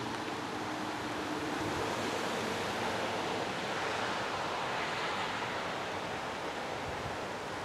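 Steady rain falling on grass and foliage: an even, unbroken hiss.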